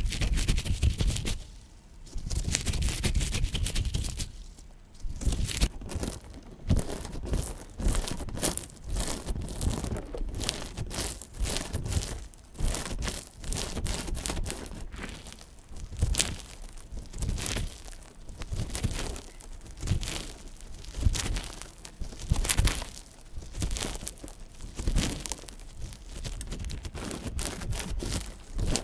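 Slime being squeezed and stretched by hand, crackling and popping in repeated bursts about once a second.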